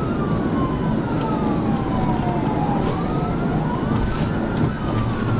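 Police car siren on wail, its pitch slowly rising and falling every few seconds, over heavy engine and road noise from the pursuing cruiser.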